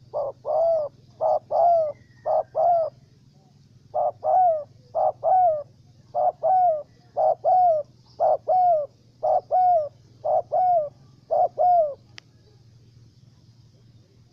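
Spotted dove cooing in a steady run of paired, falling coos about a second apart, about eleven pairs, stopping just before a single click near the end. Small birds chirp faintly behind it.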